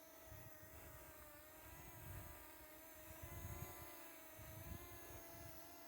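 Faint steady whine of a Parrot ANAFI quadcopter's propellers as the drone hovers and backs away, a hum of several tones that waver slightly in pitch, with irregular low rumbles underneath.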